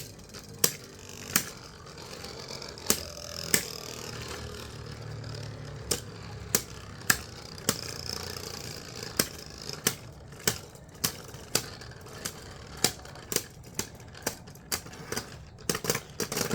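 Plastic Beyblades spinning in a stadium with a steady whirr, clacking against each other in sharp hits. The hits are spaced out at first and come thick and fast near the end.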